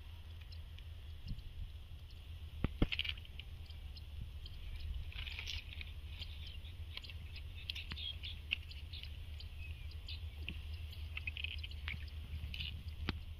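Small birds chirping over a steady low rumble, with a couple of sharp clicks about three seconds in.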